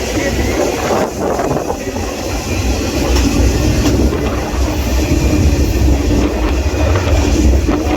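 Freight train rolling along the rails: a steady loud rumble and rattle of the cars and wheels.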